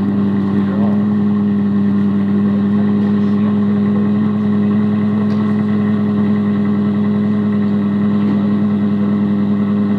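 Supercar engine idling steadily at a constant pitch, with no revving.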